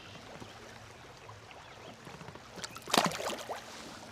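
Quiet river ambience at a kayak. About three seconds in there is a short burst of sharp knocks and clatter from the smallmouth bass being handled in the landing net.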